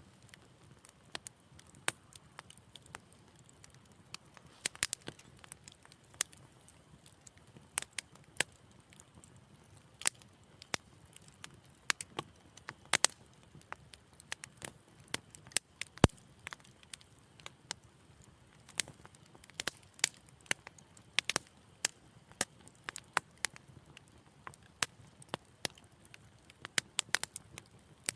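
Fire in a fireplace crackling gently: irregular sharp pops and snaps over a soft low hiss, with one louder pop about halfway through.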